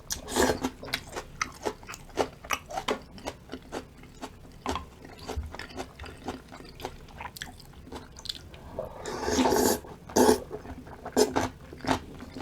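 Close-miked eating with many short crunches and mouth clicks from biting and chewing a meal of spicy beef soup with cubed radish kimchi. A longer, louder stretch comes a little past the middle.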